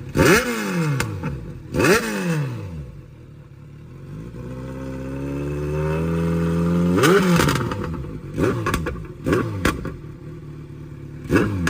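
Kawasaki Z900 inline-four with an aftermarket full-system exhaust, idling and revved with sharp throttle blips: two quick, hard blips near the start, a slow climb in revs through the middle ending in another blip, then several shorter blips toward the end.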